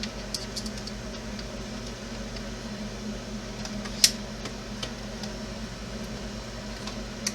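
Light clicks and taps of small plastic parts and tools being handled on a workbench, with one sharper click about four seconds in, over a steady low hum.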